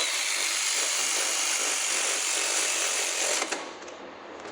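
A power tool runs steadily for about three and a half seconds and then stops, driving a spark plug on a lawnmower engine.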